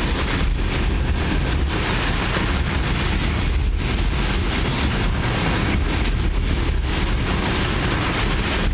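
A long Norfolk Southern freight oil train rolling past, a steady low rumble and rail noise, with wind buffeting the microphone.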